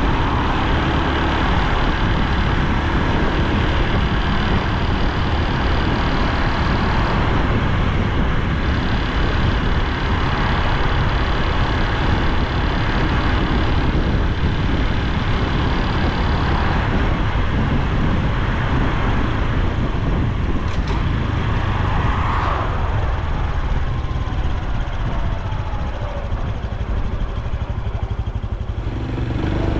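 Honda Super Cub C125's air-cooled single-cylinder four-stroke engine running steadily under way, mixed with wind and road noise; it eases off slightly near the end.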